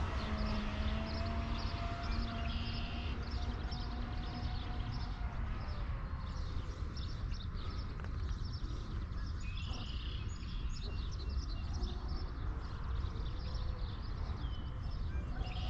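Whine of an Exocet 125 RC catamaran's electric motor out on the water, fading and dropping slightly in pitch over the first six seconds. Birds chirp throughout.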